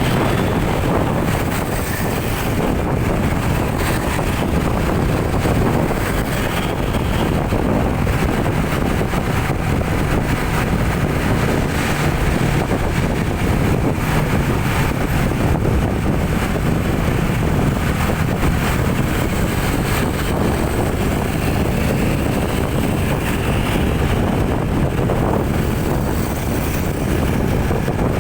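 Steady engine and road noise of a vehicle driving along, with wind rumble on the microphone.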